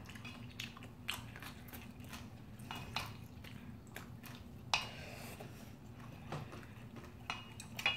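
Close-up eating of bibimbap: chewing with scattered short, wet mouth clicks and smacks, the sharpest about halfway through, over a low steady hum.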